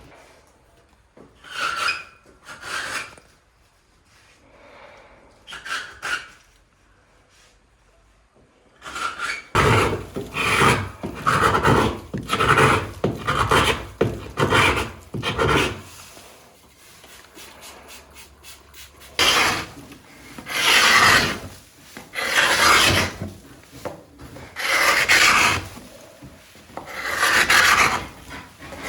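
Hand paint scraper dragged over a wooden boat hull, stripping old antifoul paint in repeated rasping strokes: a few scattered strokes at first, a quick run of short strokes from about ten seconds in, then slower, longer strokes.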